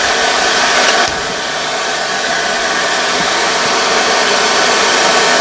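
Forge running hot with a steady rush of forced air.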